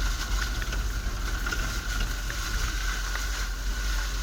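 UAZ off-road vehicle driving on a rough mountain road, heard from inside the cabin: a steady low rumble with a constant whine and scattered small rattles and knocks.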